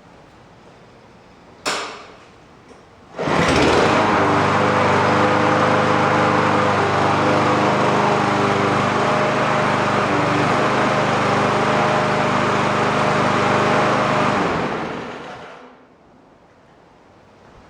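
Huskee 21-inch mower's 173cc Powermore single-cylinder OHV engine pull-started: a short noise, then it catches about three seconds in and runs steadily at mowing speed. It is shut off near the end and winds down over about a second. It starts easily with the auto choke.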